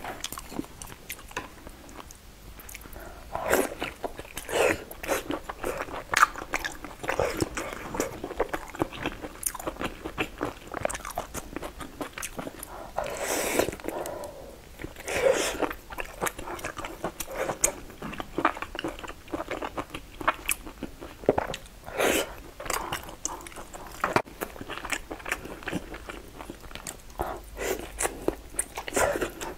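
Close-miked chewing and wet mouth sounds of a person eating soft, saucy braised pork belly, with several louder bites as pieces go in.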